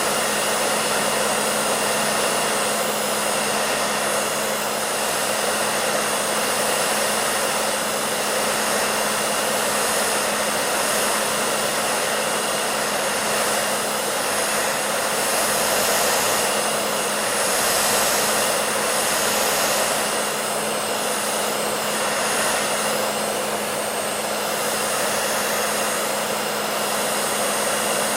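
Hair dryer running continuously: a steady rush of airflow over a constant motor hum.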